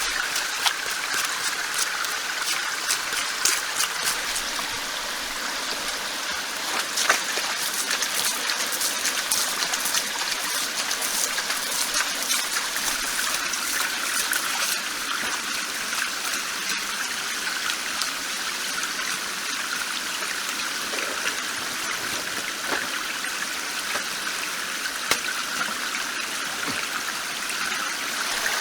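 A small stream trickling and flowing steadily, with scattered faint clicks through the first half.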